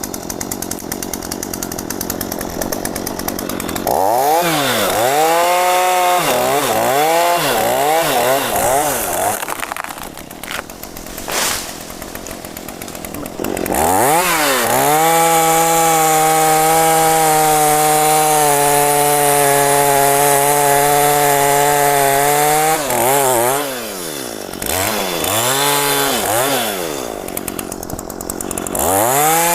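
Two-stroke chainsaw idling, then revved in several quick bursts, then held at steady high revs for about nine seconds as it cuts into a mahogany trunk, then revved up and down again.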